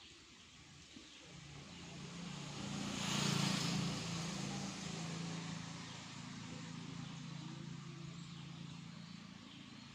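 A motor engine running with a steady low hum, building from about a second in to its loudest around three seconds in, then continuing more evenly and easing off near the end.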